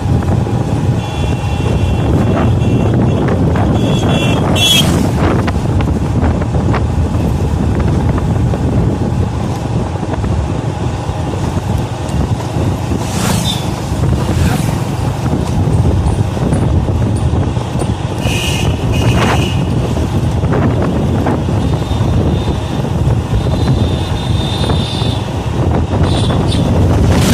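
Steady loud outdoor rumble of wind on the microphone mixed with road traffic, with a few short high-pitched tones cutting through.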